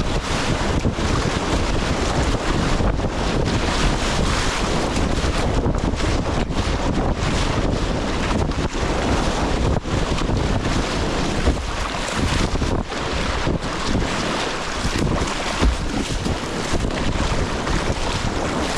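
Rushing river whitewater churning around a kayak, a steady loud wash, with wind buffeting the microphone.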